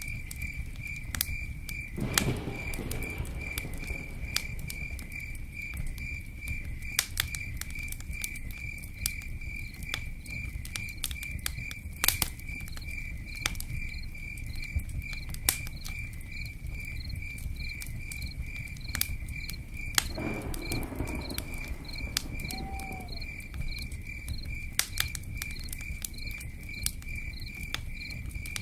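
Campfire crackling with sharp scattered pops over rain pattering, while a cricket chirps steadily at about two chirps a second.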